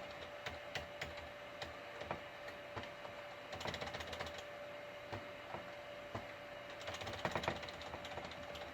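Computer keyboard keys being pressed: scattered single taps, with two short quick runs of keystrokes about four and seven seconds in.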